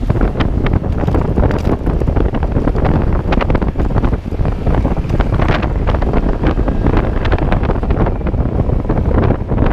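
Loud wind buffeting the microphone: a steady low rumble with frequent crackles.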